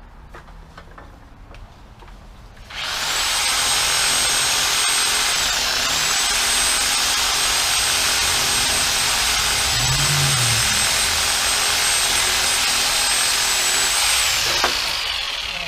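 Reciprocating saw (Sawzall) starting a few seconds in and running steadily at full speed while cutting tree branches. Its whine dips briefly once, then falls away as the motor winds down near the end.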